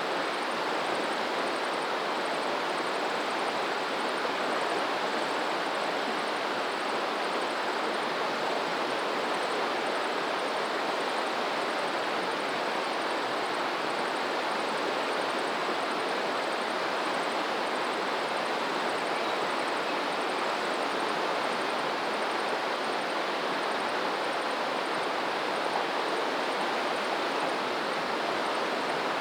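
Water rushing steadily, a constant even wash with no surges or lulls.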